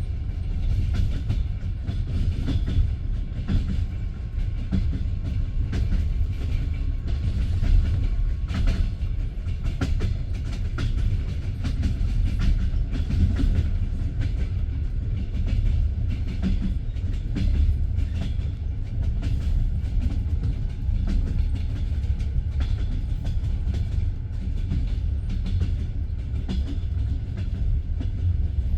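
Passenger train carriage rolling on the rails: a steady low rumble with scattered wheel clacks over rail joints.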